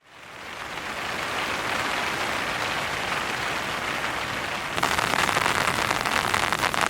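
Heavy rain falling, fading in at the start. Nearly five seconds in it switches suddenly to a louder, closer patter of many separate drops.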